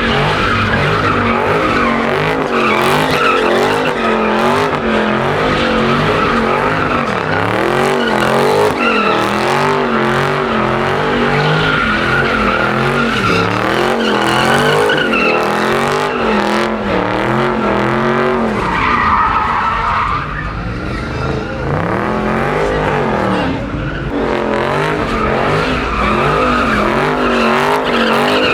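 Car engine revving hard, its pitch swinging up and down about once a second, with tyres squealing and skidding: a car doing donuts or drifting.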